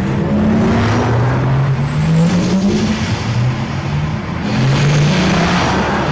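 A car accelerating, its pitch rising steadily and dropping back several times, as in a run up through the gears.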